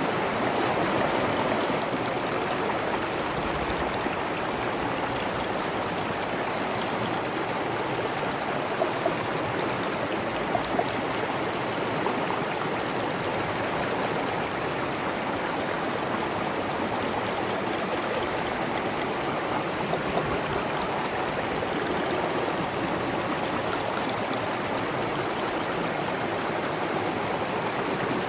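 Water flowing steadily in an even rush, with a few brief slightly louder splashes.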